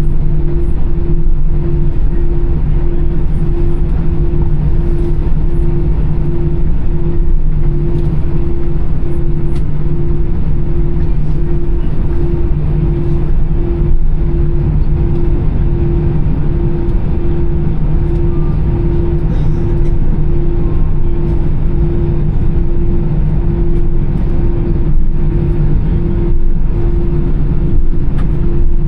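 Airbus A320's CFM56 engines at idle as the airliner taxis, heard inside the cabin: a steady loud drone and rumble, with a mid-pitched tone pulsing evenly about one and a half times a second.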